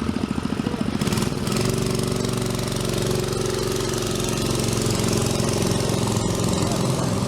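Small mini bike engine running on its first outing: it putters at a low idle with distinct firing pulses, then about a second and a half in picks up to a steadier, faster run.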